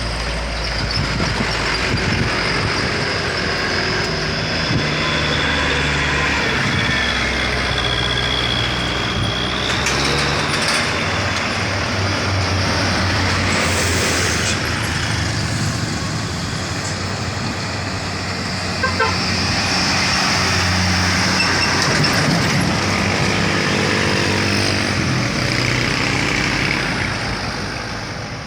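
Heavy diesel trucks labouring through a sharp bend, their engine notes stepping up and down in pitch as they pull. A high whine rises and fades, and there is a short hiss about fourteen seconds in.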